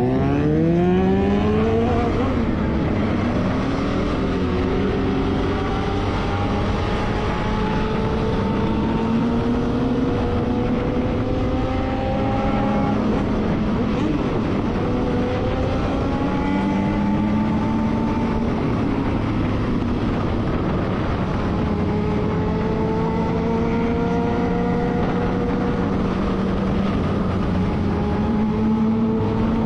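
Motorcycle engine under way, pulling through the gears: its pitch climbs slowly for several seconds, drops at each shift and climbs again, after a quick dip and rise right at the start.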